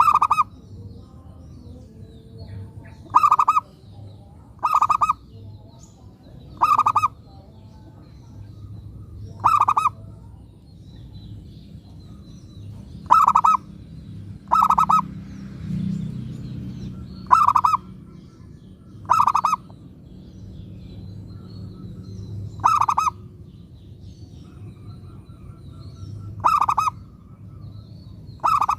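Zebra dove (perkutut) singing its short cooing phrase about a dozen times, each one brief and loud, spaced a second and a half to three and a half seconds apart. It is a lure bird's song, the kind meant to set other perkutut answering.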